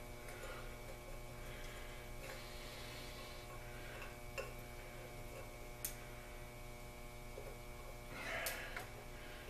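Faint handling sounds of protective plastic film being picked and peeled off a new air compressor: a few small clicks and a short rustle near the end, over a steady electrical hum.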